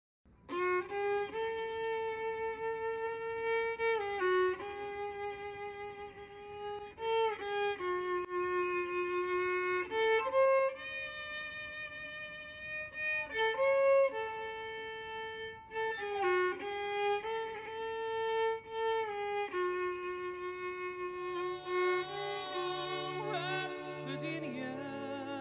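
Solo violin playing a slow melody of long held notes, starting about half a second in. Lower accompanying notes join near the end.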